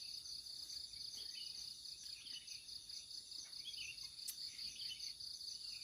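Insects trilling steadily in a fast, pulsing high note, with short bird chirps scattered through it and a single faint click about four seconds in.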